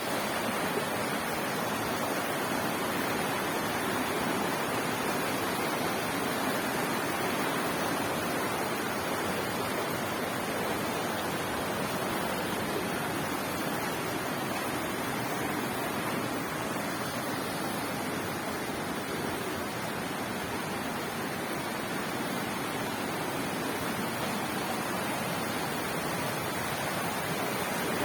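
Water rushing steadily down a mountain stream, a constant even sound with no breaks.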